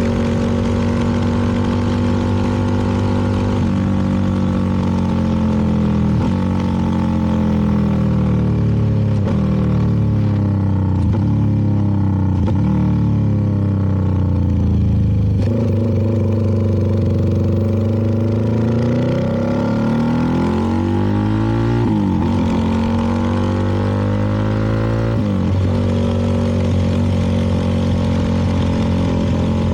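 CFMoto 300NK's single-cylinder engine running under way, its pitch sliding down for long stretches and jumping back up several times as the bike changes speed and gear.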